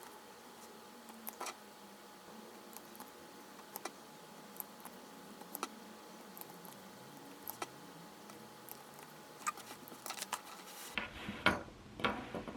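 Scattered faint clicks and taps over a faint steady hum, with louder, closer knocks after about eleven seconds.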